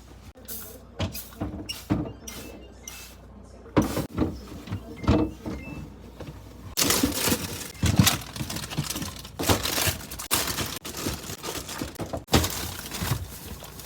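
Fridge contents being handled during cleaning and organizing: a string of irregular knocks and clunks as items are moved and set down, with a few longer stretches of rustling or scrubbing noise in the second half.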